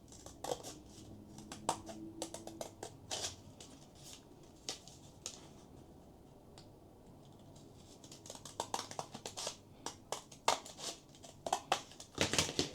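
Scissors snipping through four layers of folded cardstock paper: a run of short, irregular snips, a quieter pause in the middle, then more snips near the end.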